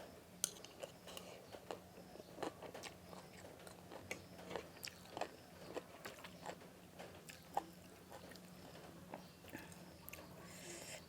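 A person chewing and biting food close to the microphone, with irregular small crunches and clicks.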